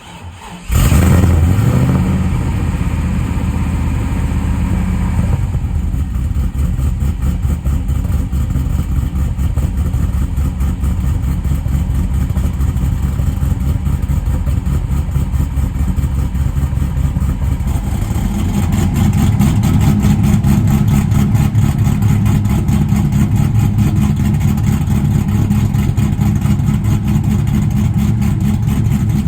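LS1 5.7-litre V8 in a Nissan 240SX with a TSP Torquer V2 camshaft. It starts up about a second in and idles through open exhaust cutouts with a loud, choppy beat. The idle settles lower about five seconds in, and the sound grows louder and fuller about 18 seconds in.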